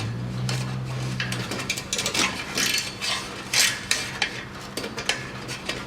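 Ratchet wrench clicking in irregular bursts as a rusted bolt holding the exhaust heat shield is worked loose, with a low hum for the first second and a half.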